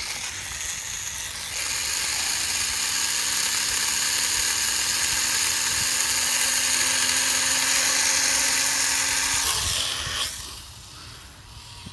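Small electric motor and propeller of an Air Hogs E-Charger toy plane running with a steady high-pitched whine. The whine comes in about a second and a half in and fades away near the end.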